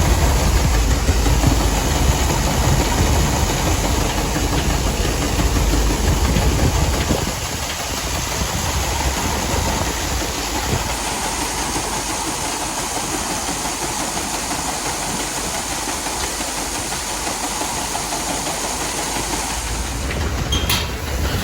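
Heavy engine-driven farm machinery running steadily: a loud low rumble that drops away about seven seconds in, leaving a steady rushing noise.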